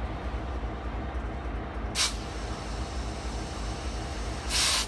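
Canadian Pacific diesel locomotive and lit freight cars rolling past with a steady low rumble. Two short hisses cut through, a brief one about two seconds in and a longer, louder one near the end.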